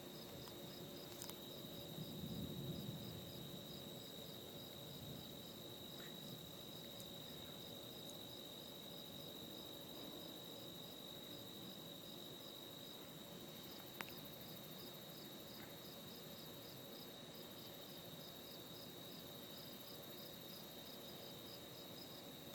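Insects calling in a steady high buzz, with a regular, quick pulsed chirping over it. A single sharp click comes about two-thirds of the way through.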